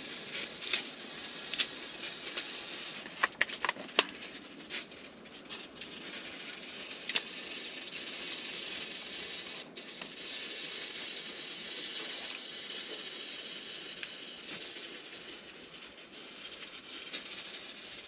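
Steady hiss of a pot heating on a wood stove, with scattered sharp clicks and light knocks in the first few seconds.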